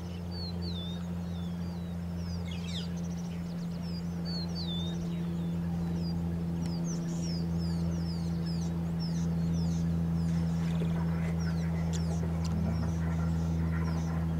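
Several wild birds chirping and whistling, with one swooping whistle repeated a few times. Under them runs a steady low hum.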